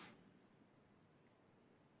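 Near silence: faint room tone, with the tail of the preacher's voice dying away at the start.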